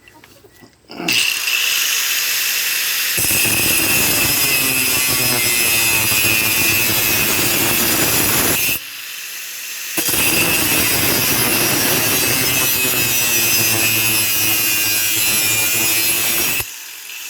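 Angle grinder with a thin zip-cut cut-off wheel cutting through a steel saw blade, a loud steady whine with grinding noise. It starts about a second in, stops for about a second near the middle, then runs again for about seven seconds.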